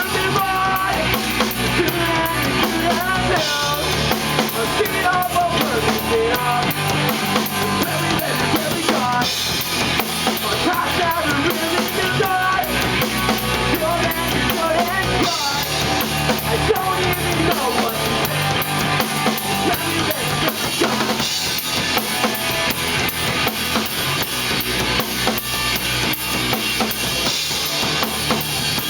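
Live rock trio playing an instrumental passage: electric guitar, bass guitar and a drum kit with steady bass drum and snare hits, the bass notes changing every couple of seconds.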